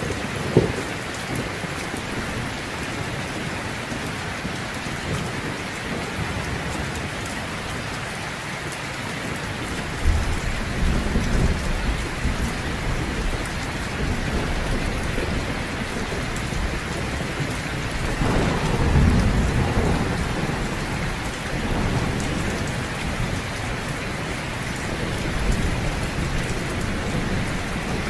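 Heavy rain falling steadily, with low rolls of thunder about ten seconds in and again near twenty seconds, and a brief low thump right at the start.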